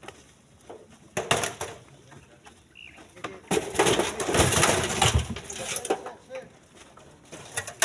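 Split stone knocking and clattering as it is loaded by hand: a few sharp knocks, then a longer, louder tumble of rocks near the middle, and more knocks near the end.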